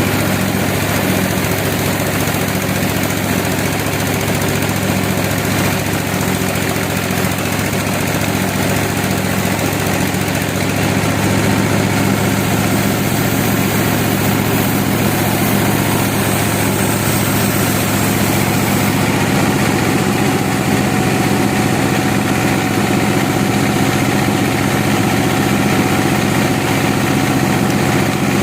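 An engine running steadily at a constant speed, with a low hum and a slight change in tone about halfway through.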